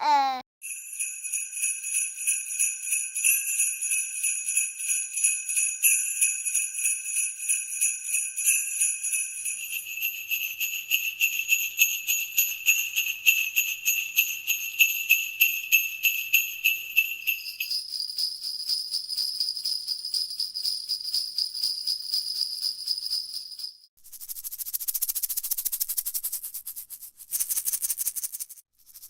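Jingle bells shaken rapidly and continuously, changing to a different bell set about ten seconds in and again near eighteen seconds, each ringing at its own pitch. Near the end come two bursts of a high, hissing rattle shaken quickly.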